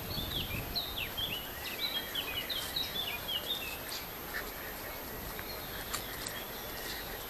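Small bird singing: a quick series of short, falling chirps for about the first four seconds, over faint outdoor background noise.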